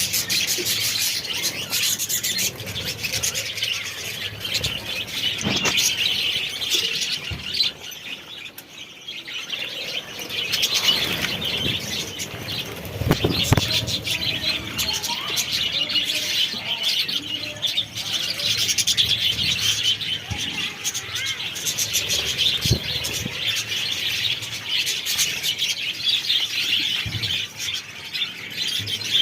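A colony of budgerigars chattering and chirping continuously, many birds at once, with a short lull about a third of the way through.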